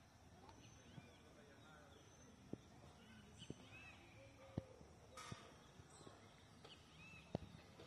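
Faint rural ambience: small birds chirping now and then, with a few sharp clicks scattered through.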